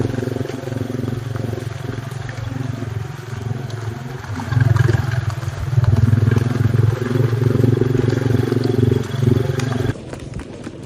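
A steady engine drone that gets louder about halfway through, then cuts off suddenly near the end.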